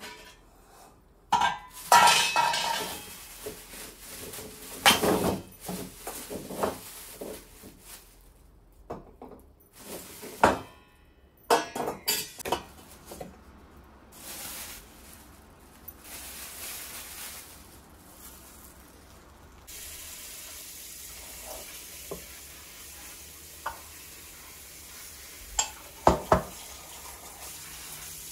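Dishes, pots and cutlery clattering and clinking as they are handled, in a string of separate knocks. About two-thirds of the way in, a tap starts running steadily.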